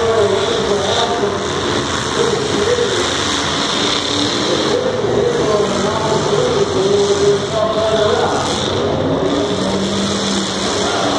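Demolition derby cars' engines running and revving in the arena, the pitch rising and falling as the drivers rev, over a continuous noisy din.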